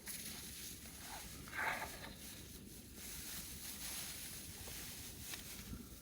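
Faint handling noises: a brief rustle about one and a half seconds in, then a few small clicks and rustles over a quiet background.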